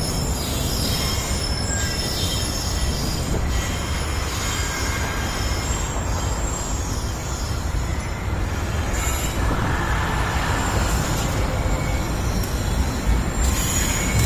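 Freight train rolling past: a steady rumble of wagons on the rails with high wheel squeal, getting a little harsher about two-thirds of the way through.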